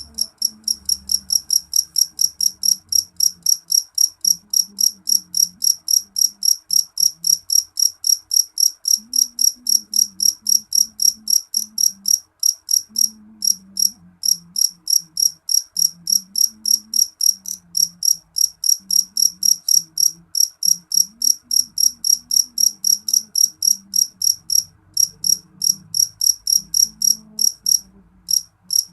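Cricket chirping in a steady, even rhythm of about three high-pitched chirps a second, with a short break near the end.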